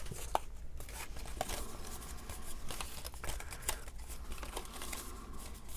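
Paper and cardstock pieces being handled on a tabletop: light rustling with scattered small clicks and taps.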